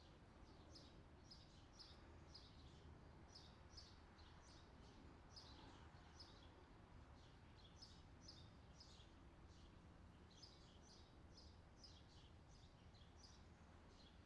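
Faint bird chirping: short, high chirps repeating irregularly, a few every second, over a low steady background hiss.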